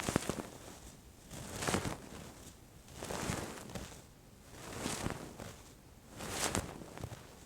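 Fluffy earpick swept in slow strokes, five soft swishes about one and a half seconds apart.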